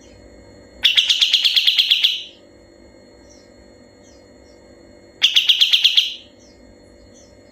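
Kapas tembak songbird singing two loud, rapid trilled bursts of about eight notes a second, the first about a second in lasting over a second, the second shorter near the end.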